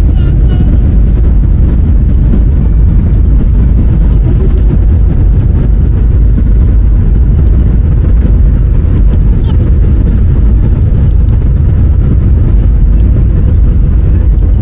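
A loud, steady low rumble with no clear pitch, starting suddenly as the music ends.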